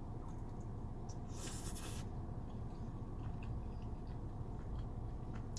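Steady low hum of a car's engine and ventilation heard from inside the cabin, with a brief rustle about a second and a half in and a few small clicks.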